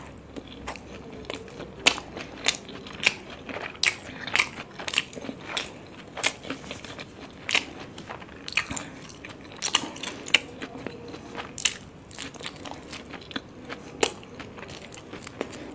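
Close-miked chewing of steamed veg momos: a string of short, sharp mouth clicks and smacks, a few a second, at irregular intervals.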